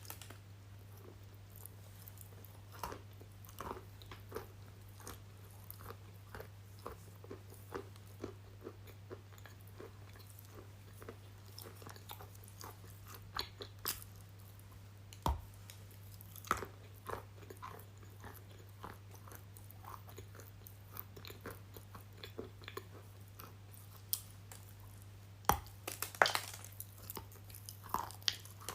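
Close-miked crunchy chewing and biting: a run of irregular small crackles with a few louder crunching bites, over a steady low electrical hum.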